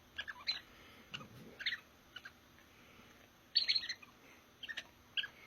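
Short bird-like chirps from a cat toy's squeaker, coming in scattered bursts, loudest in a quick cluster about three and a half seconds in.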